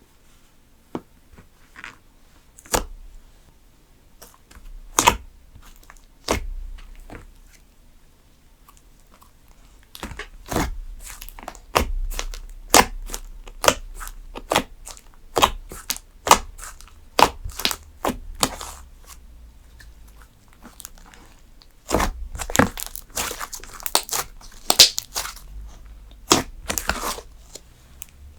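Slime being handled, making sharp crackling clicks and pops: a few scattered ones at first, coming about twice a second from about ten seconds in, and bunching into dense crackling near the end.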